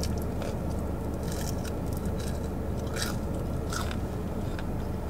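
Close-up chewing and biting of French fries, with a few irregular soft crunches over a steady low hum.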